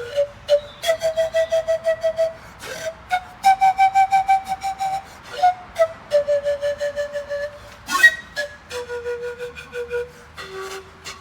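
Flute-like wind instrument playing a single melodic line, each held note broken into rapid repeated pulses, stepping up and down between a few pitches. A sharp tap about eight seconds in is the loudest moment.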